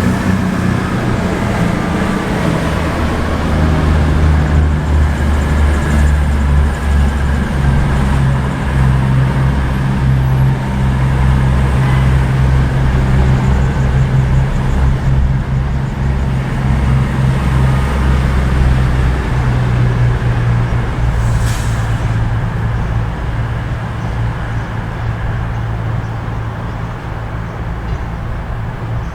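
Diesel train engine running under load, a loud, steady low drone whose pitch shifts in steps, easing off over the last few seconds.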